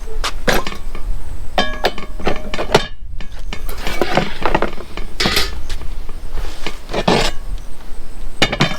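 Cast-iron press and metal parts being handled and set together: a run of separate clinks and knocks, some ringing briefly.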